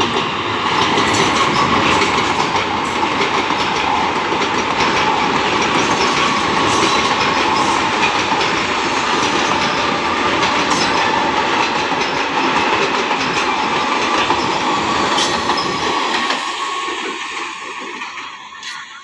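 Electric multiple unit (EMU) local train passing close by, a loud steady rumble with the wheels clattering over the rail joints, dying away near the end as it recedes.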